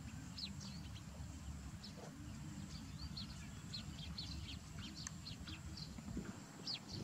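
Small birds chirping in the background: many short, quick calls, scattered irregularly, over a steady low rumble.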